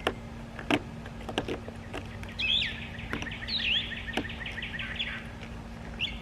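A songbird singing a rapid trill of repeated chirps for about two and a half seconds, starting a couple of seconds in. A few sharp clicks are heard as well.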